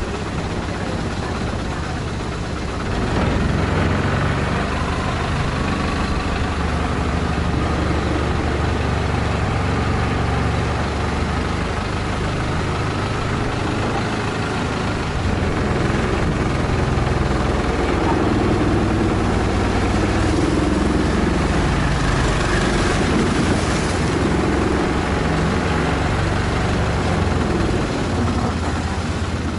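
Long-tail boat engine running steadily, getting louder about three seconds in.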